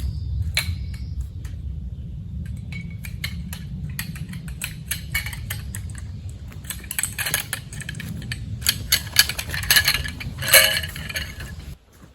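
Metal camp cookware and gear clinking and knocking as it is packed away: a quick, irregular run of small clicks and clanks that grows busier after a few seconds, over a steady low rumble that cuts off just before the end.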